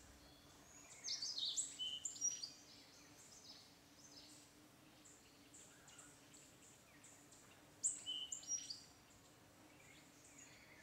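Birds calling outdoors in two short bouts of high, sharp chirps, one about a second in and another about eight seconds in, over a faint steady background hum.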